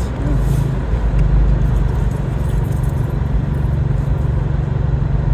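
Car running, heard from inside the cabin: a steady low engine and road drone.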